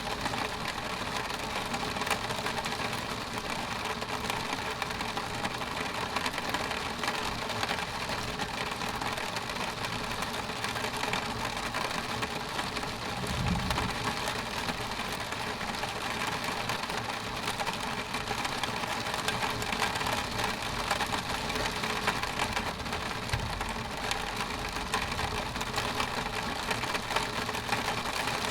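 Rain hitting a window pane: a steady hiss of rainfall with many small drop ticks on the glass. A brief low rumble about halfway through.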